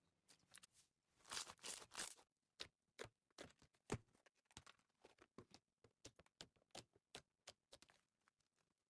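Slime being squeezed and worked by hand close to the microphone, giving sticky crackles and pops. A dense crackling stretch comes about a second in, then single sharp pops follow irregularly, several a second.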